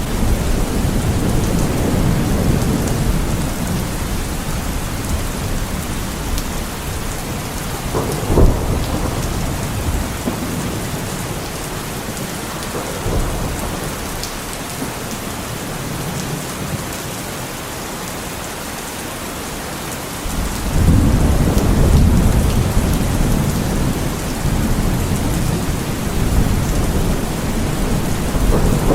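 Heavy rain falling steadily through a thunderstorm, with rolling thunder rumbling at the start and again from about two-thirds of the way in, and a sharp thunderclap about a third of the way through.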